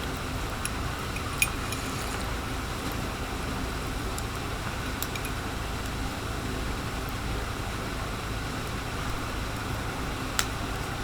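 Steady low outdoor rumble with a few sharp clinks, the loudest about a second and a half in and another near the end.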